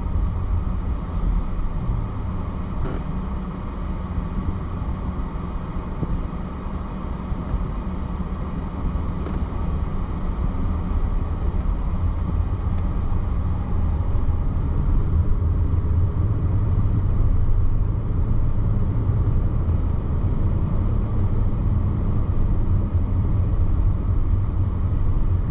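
Car interior road noise while driving: a steady low engine and tyre rumble that grows a little louder about halfway through.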